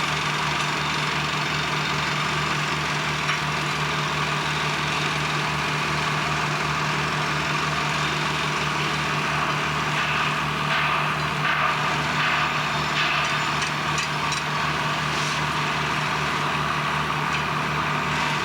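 Heavy machinery running steadily, with a constant low hum and an even low pulsing about three times a second; some extra clatter joins in around the middle.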